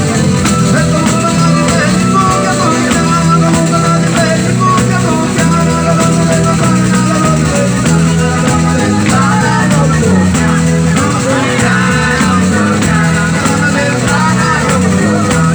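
Live pizzica folk music from Salento: a band playing a fast, driving rhythm with a dense, continuous texture of percussion and melody instruments.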